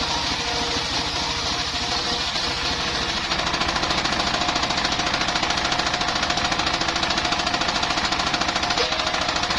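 Engine-driven circular sawmill running, its engine firing in a fast, steady pulse with faint steady tones above it; it grows a little louder and more even about three seconds in.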